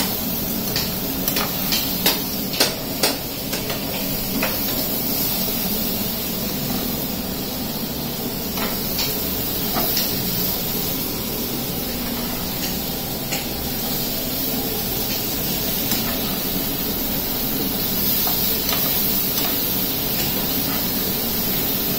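Diced potatoes frying in a pan on a gas stove with a steady sizzle while being stirred with a metal spoon. A run of sharp clicks and taps of the spoon against the pan comes in the first few seconds, with a few more later.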